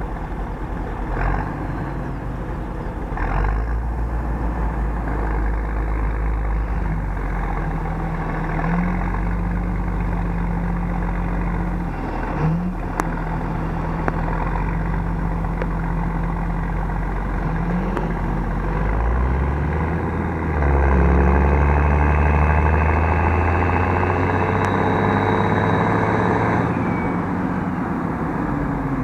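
Large farm tractor's diesel engine running, its revs stepping up and down several times, then rising and running louder about two-thirds of the way through.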